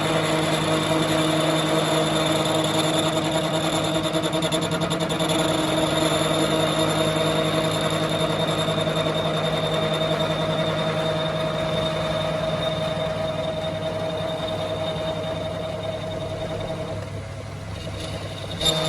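A workshop machine's motor running steadily with a constant hum and whine, easing slightly in loudness over the last few seconds.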